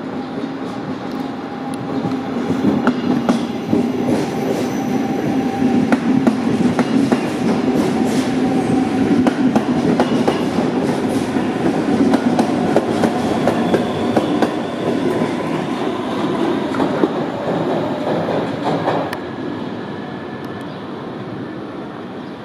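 Six-car NS DDZ double-deck electric Sprinter train rolling past along the platform, wheels clattering on the rails over a steady whine, growing louder as the cars go by. It eases off about nineteen seconds in.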